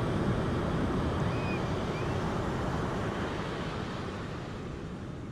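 Steady rushing of flowing water, easing slightly toward the end, with two faint short chirps about a second and two seconds in.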